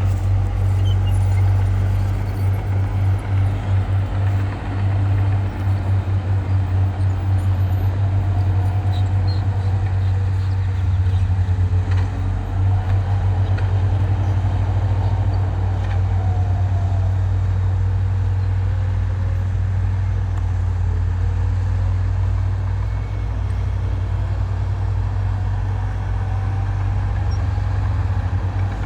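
Heavy diesel earthmoving machinery running with a deep, steady, pulsing drone, with faint whines slowly rising and falling in pitch.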